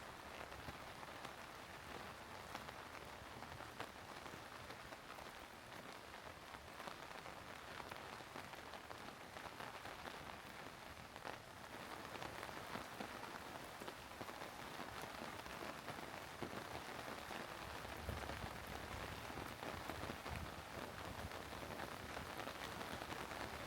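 Steady rain falling on roads, leaves and other outdoor surfaces, a dense hiss of many small drop hits, growing slightly heavier about halfway through.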